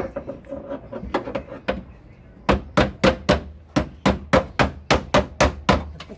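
Hammer blows: a few light taps, then a fast, even run of about a dozen loud strikes, roughly four a second.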